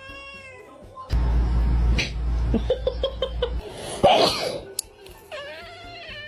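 A domestic cat meowing at the start and again near the end. In between there is a loud low rumble lasting a couple of seconds, a quick run of short pulses, and one short loud burst about four seconds in.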